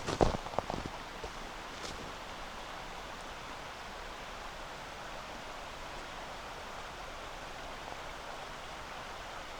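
Steady rush of a flowing river, with a few footsteps on compacted snow in the first second.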